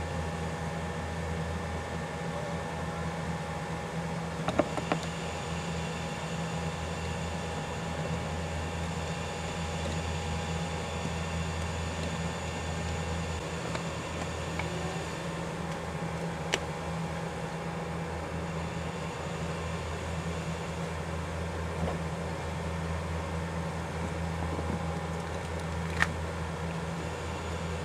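Steady machine hum with a few sharp clicks: a small cluster about four to five seconds in, and single ones later, the loudest near the end.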